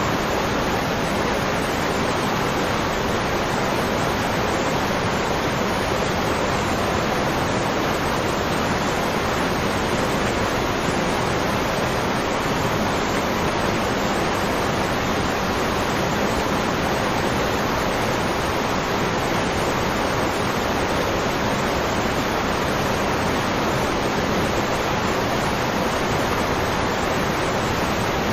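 Waterfall rushing in a steady, unbroken roar of white water, with no change in level.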